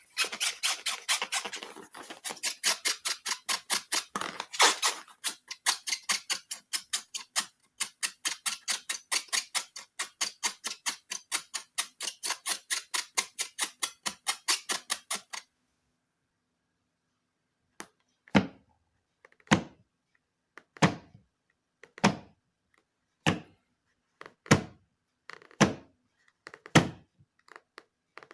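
Rapid, crisp clicking, about five a second, while balloon slime is being made, stopping about halfway through. After a short pause it gives way to slower single strokes about once a second, each duller and deeper.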